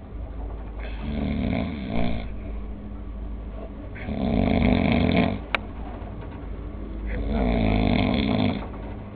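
Pit bull terrier snoring in its sleep: three long snores about three seconds apart, with quieter breathing between them and a short click just after the second.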